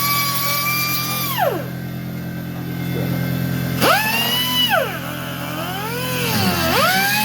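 Air-powered cutoff wheel whining at high speed: it spins up, holds and winds down about a second and a half in, spins up again near the four-second mark and lets off, then its pitch sags and wavers as it bites into rusted sheet metal before steadying.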